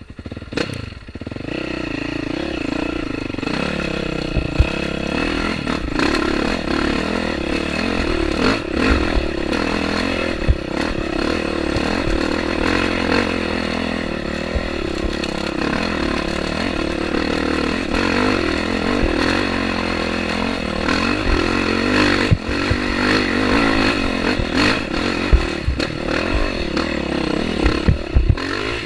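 Dirt bike engine running steadily as the bike is ridden over rough ground, with scattered sharp clattering knocks. The sound comes up suddenly about a second in after near quiet.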